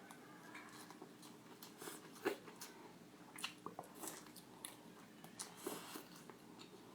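A person eating: faint chewing and biting with scattered small wet mouth clicks and crackles, one sharper click a little over two seconds in.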